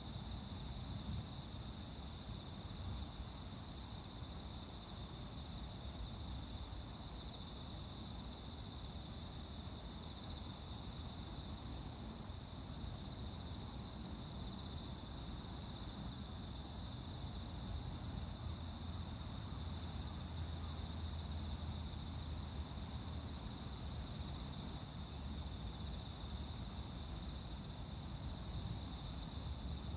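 A steady chorus of night insects, several kinds at different pitches: two continuous high trills, plus one insect repeating a short call at an even pace. A low rumble runs underneath.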